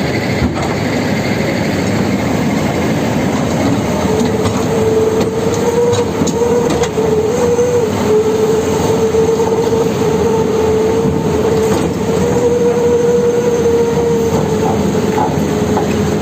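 Heavy diesel machinery running hard, with a steady, slightly wavering whine that comes in about four seconds in and holds.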